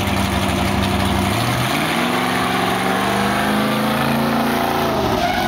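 Engine of a motorized drill-team racing fire truck running steadily, then revving up about a second and a half in, holding high, and dropping back near the end.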